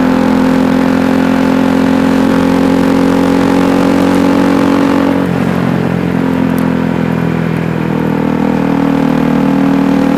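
KTM Duke 390's single-cylinder engine running steadily; about five seconds in its note drops and settles lower and a little quieter, then rises slightly again near the end.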